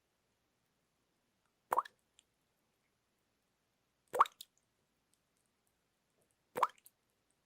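Single water drops plopping into water, three times about two and a half seconds apart. Each is a short bloop rising in pitch, followed by a faint tiny drip.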